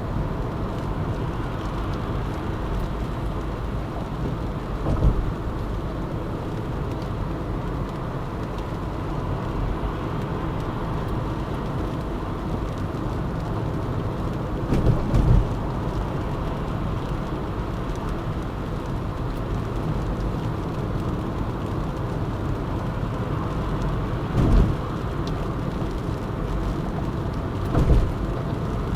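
A car driving on a city expressway: steady road and engine noise, with four short thumps spread through, the last near the end.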